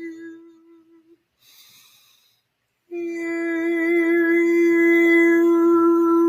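A single steady held tone with rich overtones, part of a sound-healing session. It fades away, drops out for about two seconds, then comes back suddenly about three seconds in and holds with a slight waver.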